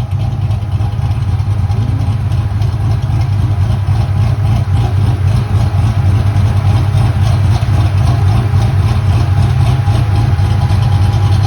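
A motor vehicle's engine idling steadily, a deep even rumble that grows slightly louder a few seconds in.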